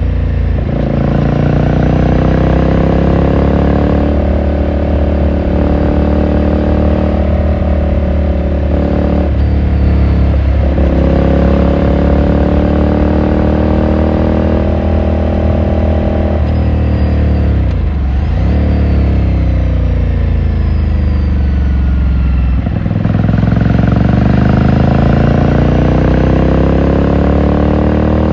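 2018 Ducati Scrambler Sixty2's air-cooled L-twin engine under way, its pitch rising as it pulls through the gears and dropping back at each shift. About two-thirds of the way through, the revs fall sharply and pick up again, then climb steadily near the end.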